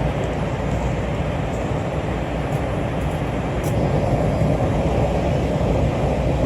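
Los Angeles Metro Expo Line light-rail train running, heard from inside the car: a steady rumble of wheels on track and running noise that grows a little louder about four seconds in.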